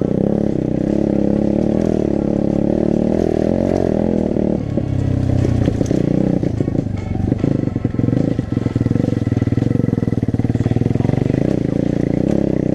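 Dirt bike engine running under way, its pitch rising and falling as the throttle changes.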